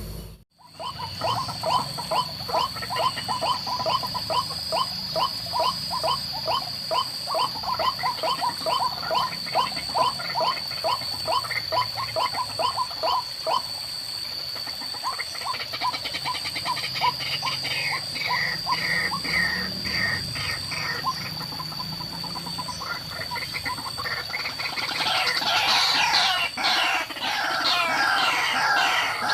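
White-breasted waterhens calling: rapid repeated croaking notes about four a second, the pattern changing after the middle and becoming denser near the end. A steady high whine runs underneath.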